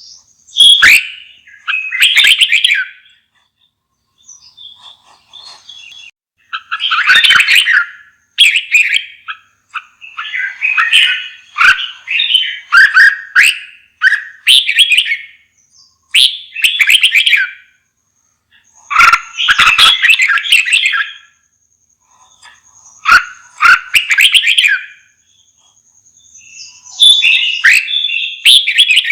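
Red-whiskered bulbul singing: loud, rich warbled phrases of a second or two each, repeated with short pauses between them.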